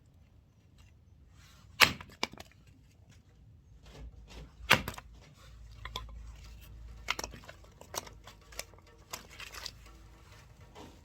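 Firewood being split: a series of sharp wooden knocks and cracks. The loudest come about two seconds in and near five seconds, with lighter knocks after.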